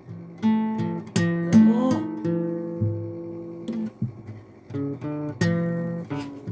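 Acoustic guitar being played: chords and notes struck one after another, each ringing out and fading, with a sliding, rising note about two seconds in.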